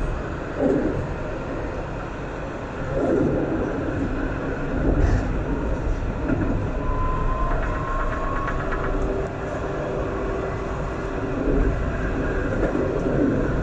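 Alstom Citadis 402 tram running along the line: a steady rolling rumble with a few thumps from the wheels and track, and a faint whine coming in about halfway.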